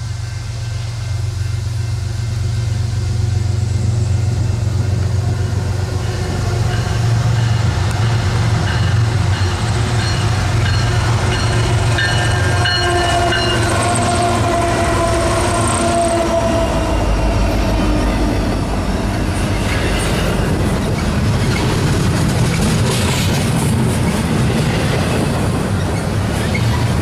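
Union Pacific diesel freight locomotives approach and pass, their engines rumbling while the horn sounds a chord that dips in pitch as the lead units go by. This is followed by a long intermodal stack train rolling past with rhythmic wheel clicks over the rail joints.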